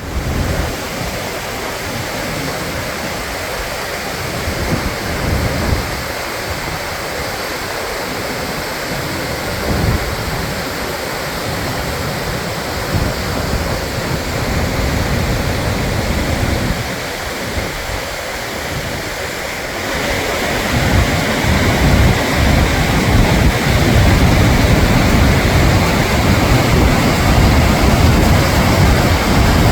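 Gullfoss waterfall's steady rush of falling water, with wind gusting on the microphone. It grows louder about two-thirds of the way through.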